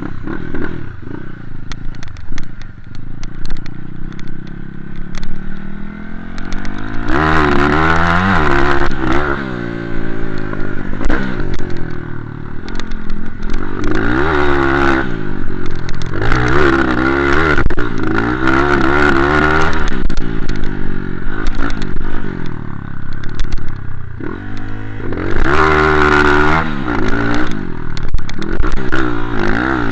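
Motocross bike engine running hard, its revs surging up and falling back again and again as the throttle is worked, with some clattering.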